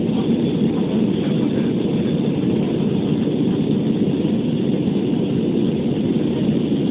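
Steady cabin noise inside an Airbus A320 in its climb after takeoff: an even, unchanging roar of the jet engines and the airflow over the fuselage.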